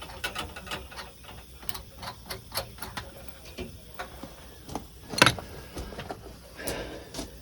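Irregular light metallic clicks and taps from a clamp being handled and worked with pliers, with one sharper knock about five seconds in.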